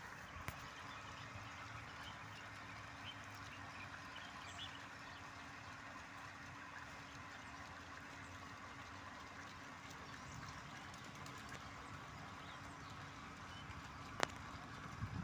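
Faint outdoor ambience with scattered distant bird chirps over a steady low hum, and a sharp click near the end.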